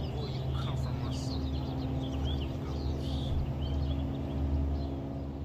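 Birds chirping, many short quick chirps throughout, over a steady low hum.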